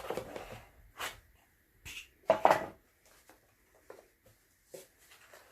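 Handling noises from an album's cardboard and paper packaging: a few short scrapes, taps and knocks, the loudest about two and a half seconds in, then small clicks.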